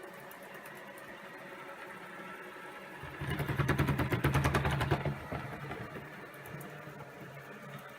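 ILIFE A4 robot vacuum cleaner running with a steady hum, then a louder rapid rattle for about two seconds in the middle before settling back to the hum.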